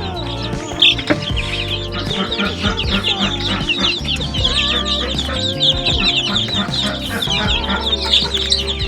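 Chicks peeping in rapid, continuous high chirps, with chickens clucking, over steady background music.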